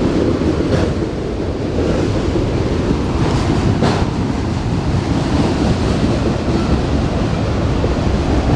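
Freight train cars rolling past close by: a steady rumble of wheels on rail, with wind buffeting the microphone.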